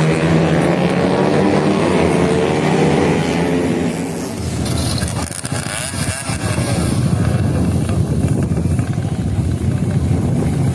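Motorcycle engine running loudly with a steady pitch, turning rougher and noisier about four seconds in.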